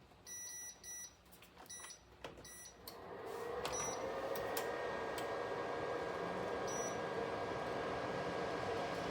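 Midea Flexify toaster oven air fryer control panel beeping several times as buttons are pressed, then its fan starts and runs with a steady whoosh and low hum from about three seconds in.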